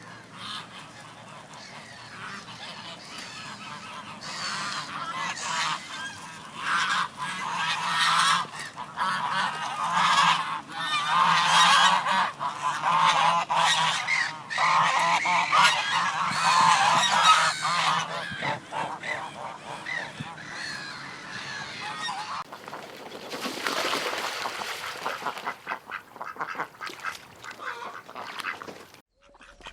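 A flock of waterfowl calling together in a dense, overlapping chorus that builds and is loudest through the middle. About 22 seconds in it cuts to a different, quieter recording of calling.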